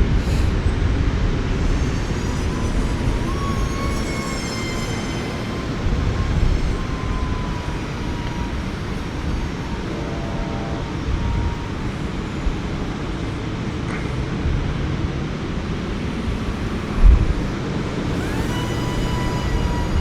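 Wind buffeting the microphone, with the thin whine of a small electric RC plane's motor and propeller passing in the distance, its pitch sliding up and down as it flies. A heavier gust hits the microphone about 17 seconds in.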